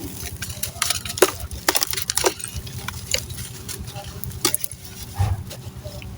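Crunchy, gritty sand-cement chunks crumbling, with scattered crisp cracks and snaps, thickest between about one and two and a half seconds in.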